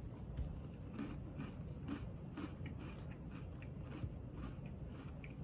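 A person chewing a crunchy chocolate sandwich cookie: soft, irregular crunches, several a second, over a low steady background rumble.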